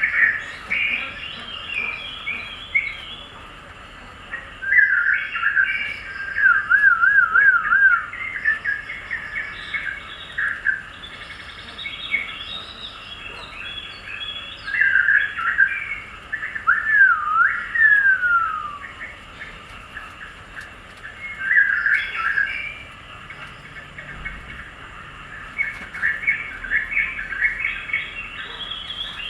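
Songbirds chirping and warbling in phrases every few seconds, including a wavering whistle and a long falling whistle midway.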